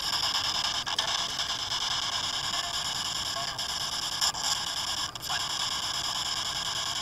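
Steady radio static hissing from a spirit box sweeping through radio stations, with a few short breaks in the hiss.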